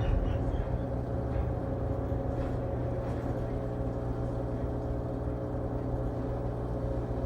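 LG Tromm WD-CR101C drum washing machine running mid-cycle on a quick wash, a steady machine hum with constant tones that neither rises nor falls.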